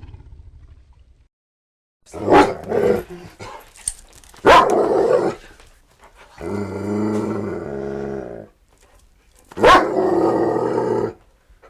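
A dog barking and growling: sharp barks with a long drawn-out growl about halfway through.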